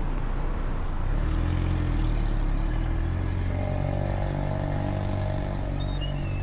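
Road traffic with a large vehicle's engine running close by: a steady low hum whose engine note swells about a second and a half in and holds through the middle. A bird chirps briefly near the end.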